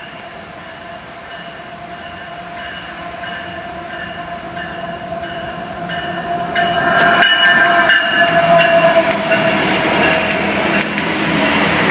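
Freight train led by a GE ES44AH (GEVO) diesel locomotive approaching and passing, engine and rail noise building steadily for about seven seconds and staying loud, with a steady whine running through it.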